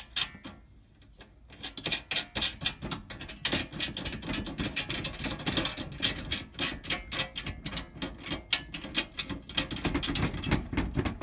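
Hurricane shutters being pulled shut and fastened: one sharp click, then a long run of rapid metallic clicking and rattling for most of the time.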